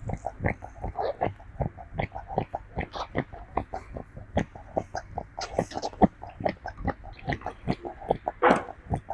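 A monkey's mouth sounds while grooming: rapid, irregular smacks and clicks, several each second, with a louder rasping sound near the end.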